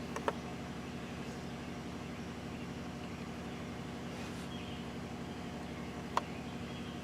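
Steady low drone of an idling vehicle engine, with two sharp clicks, one just after the start and one about six seconds in.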